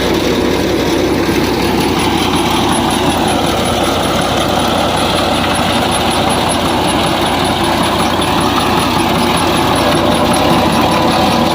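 Fiat 480 tractor's diesel engine running steadily, together with the thresher machine it drives, in one continuous mechanical din.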